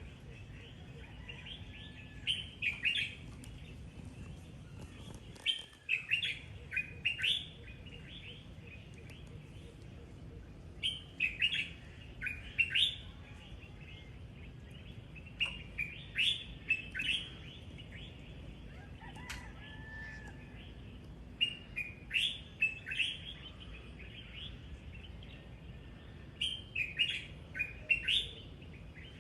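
Birds singing: short bursts of quick, high chirps that repeat every four to five seconds, with a softer lower call about two-thirds of the way through, over a steady low background hum.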